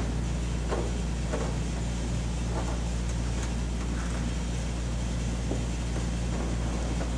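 Steady low background hum, with faint scattered taps and rustles of hands pressing a rubber weather strip onto the edge of a plastic intake air box.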